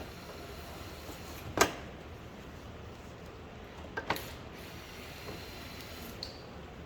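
A few sharp knocks over a steady low hum: one about a second and a half in, then two close together about four seconds in.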